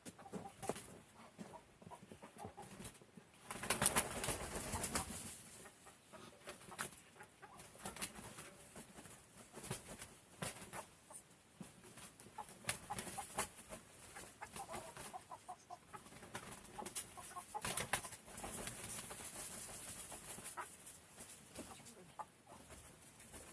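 Farm birds in their pen: faint calls with many scattered clicks, and two louder rustling bursts, about four seconds in and again around eighteen seconds.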